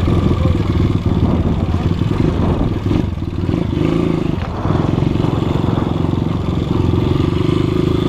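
200 cc motocross motorcycle engine running hard under throttle, easing off briefly about three to four seconds in, then picking up again.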